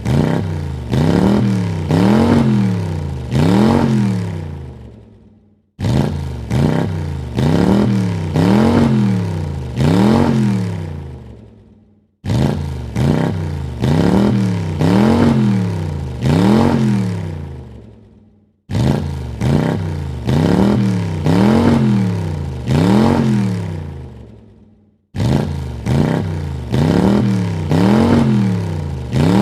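Car engine revved three times in quick succession, each rev rising and falling in pitch. Each burst starts abruptly and fades out, and the same burst repeats about every six and a half seconds, five times over.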